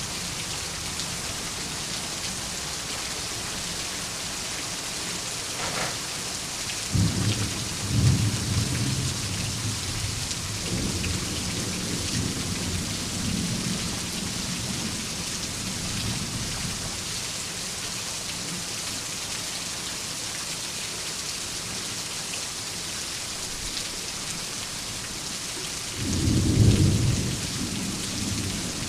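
Steady heavy rain hissing, with rolls of thunder: a rumble that builds about seven seconds in and lingers for several seconds, and a louder crack and rumble near the end.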